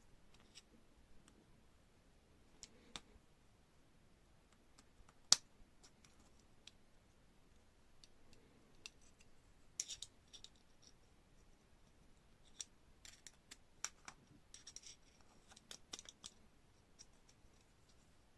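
Scattered light clicks and taps of small hard objects being handled, with one sharper click about five seconds in and a busier run of clicks near the end.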